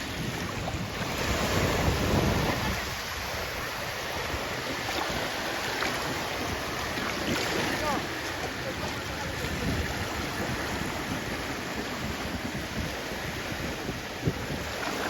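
Sea waves washing and breaking on the shore as a continuous rush of surf, with one wave swelling louder about a second in.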